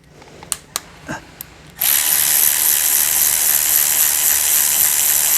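A few light clicks, then, about two seconds in, a power tool runs steadily for about four seconds, undoing one of the Torx screws that hold the CVT valve body.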